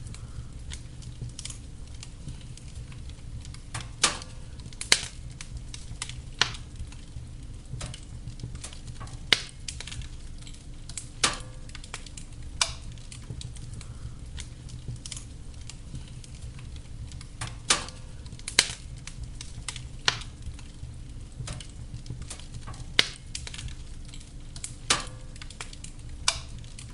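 Wood fire burning in a fireplace: a steady low rumble of flame with irregular sharp crackles and pops every second or two.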